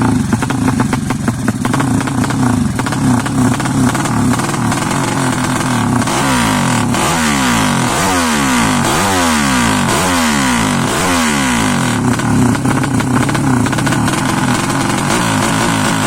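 Yamaha Jupiter single-cylinder four-stroke motorcycle engine, bored up to 200cc, running while it is being tuned. It holds a steady speed for several seconds, then takes about five quick throttle blips that rise and fall, and settles back to a steady run.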